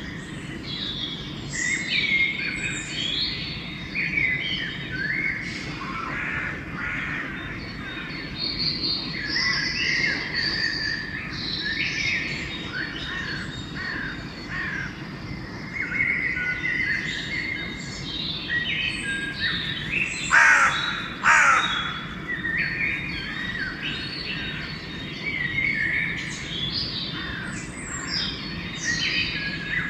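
Dawn chorus of many small songbirds singing and chirping over one another, with two loud, harsh crow caws about twenty seconds in. A steady low rumble runs underneath.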